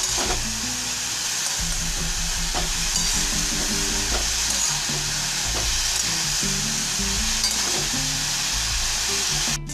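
Shredded cabbage sizzling steadily as it fries in mustard oil in an aluminium kadai, stirred and tossed with a metal spatula.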